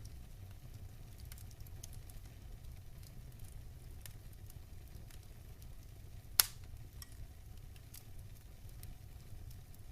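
Wood fire crackling in a fireplace: scattered small pops and ticks over a low steady rumble, with one sharp loud pop about six seconds in.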